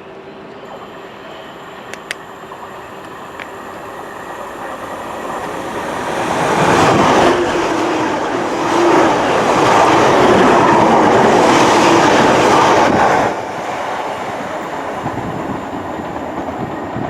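Diesel train passing close by on the track, its rumble and wheel noise building over several seconds. It stays loud for about six seconds, then drops off suddenly and continues at a lower level.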